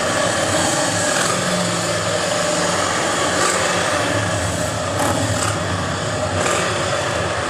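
Motor vehicle engines running steadily, with a level engine tone and no rises or falls in pitch.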